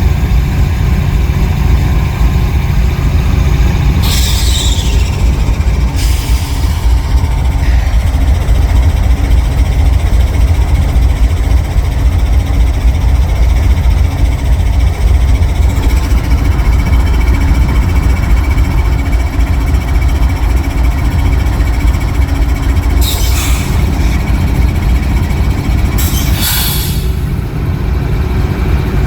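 Freight train at close range: a loud, steady low rumble with a few brief high-pitched bursts, the first of them sliding downward.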